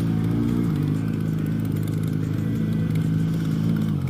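Motorcycle engine running steadily at low revs while creeping through slow traffic, its pitch wavering slightly in the first second.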